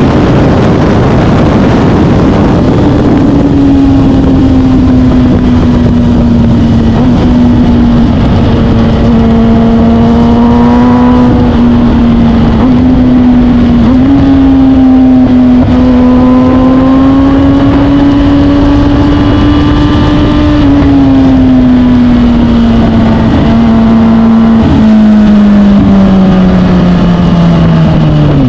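Suzuki GSX-R1000 K8's inline-four engine running at a steady cruise. Its pitch drifts gently up and down, with a few short breaks, and falls steadily near the end. A constant rush of wind noise runs underneath, heaviest at first.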